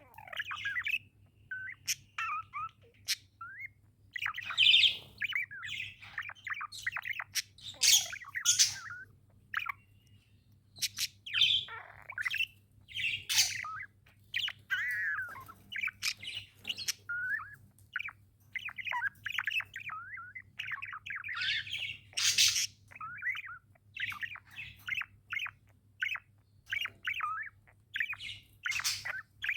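Pet budgerigars chattering and chirping: a continuous run of short, quick warbling chirps with occasional louder harsh squawks, over a faint steady low hum.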